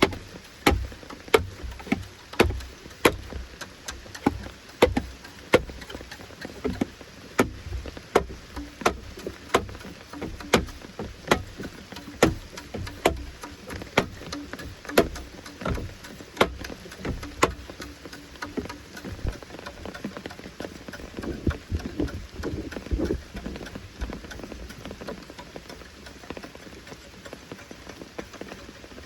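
Rhythmic sharp strikes of a tool on wood, about one and a half a second and steady, becoming weaker and uneven past the middle, over light rain.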